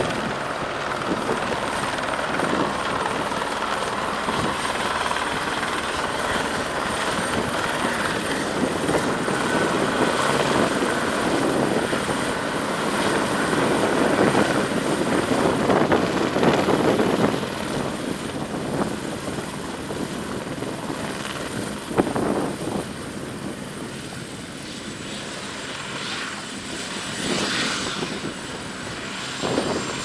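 Eurocopter AS350 B2 Ecureuil helicopter running, its single turboshaft giving a steady high whine over the rotor noise. It is loudest a little under halfway through and then grows quieter, with the whine dipping slightly in pitch near the end.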